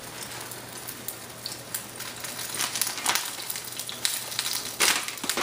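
Cheese-filled flour tortillas sizzling and crackling as they fry in a skillet, with a few sharper crackles and the rustle of a plastic bag of shredded cheese being torn open toward the end.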